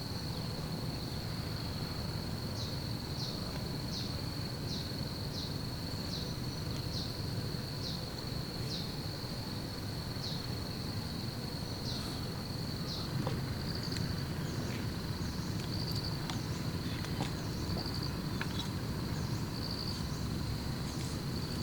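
Night insects calling: a steady high-pitched trill, with a second caller chirping on about the same pitch roughly every two-thirds of a second, then in longer calls every couple of seconds. A low steady background rumble runs under them, with a few faint ticks in the second half.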